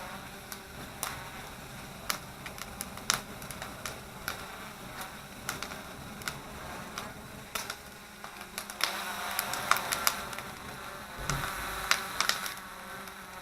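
Campfire crackling with irregular sharp pops, some in quick clusters, over the faint steady whine of a small Hubsan quadcopter's rotors fanning air onto the fire.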